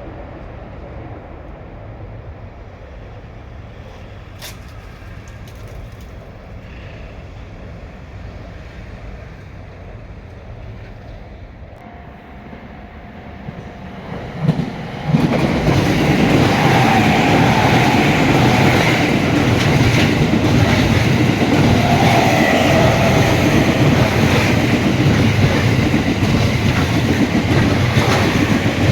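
A train passing close by: a lower rumble for about the first fifteen seconds, then an abrupt jump to loud, steady wheel-on-rail noise as the cars go past.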